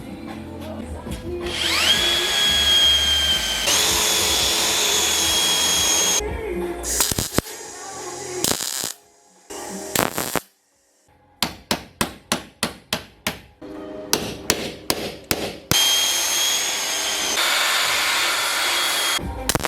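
A high-speed power tool whines up to speed and runs steadily in two separate stretches, with a run of sharp knocks about three a second in between, heard over background music. The tool is metal-working on rusty car body panels.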